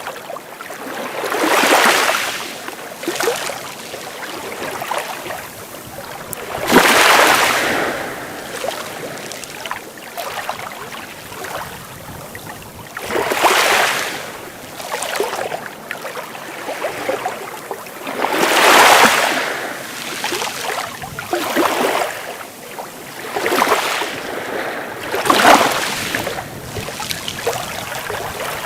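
Sea waves breaking on a beach: a wash of surf swells up and dies away about every five to six seconds, over a steady hiss of water.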